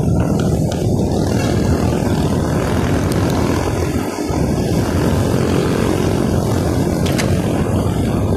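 Wind buffeting the microphone while riding, a loud steady low rumble with a brief dip about halfway through.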